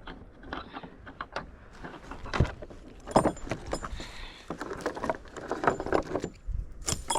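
Bicycle rattling and clattering over a rough path: irregular metallic clicks and knocks.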